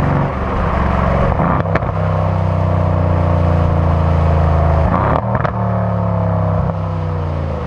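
Mercedes-AMG C63's 4.0-litre V8 engine running hard at fairly steady revs. A sharp crack comes about a second and a half in and another around five seconds. After the second crack the revs fall away.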